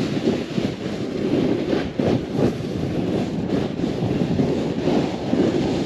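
Wind buffeting the microphone, a heavy rushing that swells and dips unevenly.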